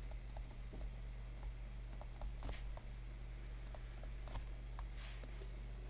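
Faint scattered clicks and taps over a steady low electrical hum.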